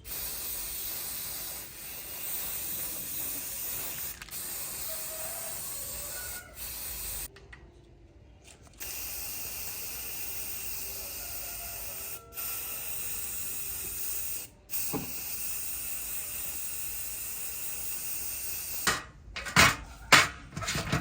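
Steady spraying hiss of a spray gun, stopping briefly several times and once for about a second and a half, about seven seconds in. A few sharp knocks come near the end.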